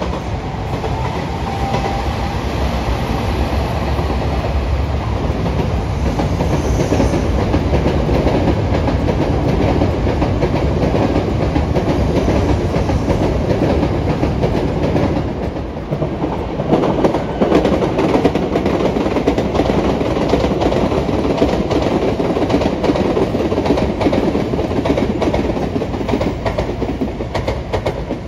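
A train running past, its wheels clattering over the rail joints, with a short dip in loudness partway through before it gets louder again.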